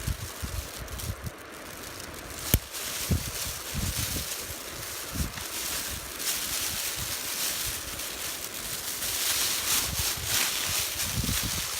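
Wood fire burning in the open, with wind buffeting the microphone in low gusts and one sharp crack about two and a half seconds in.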